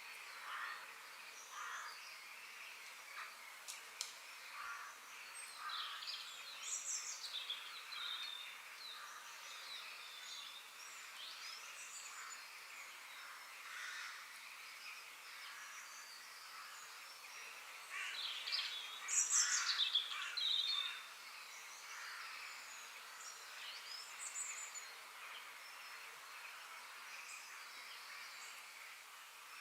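Forest birdsong: several small birds chirping and calling in short, scattered notes over a steady background hiss, with a louder flurry of calls about two-thirds of the way through.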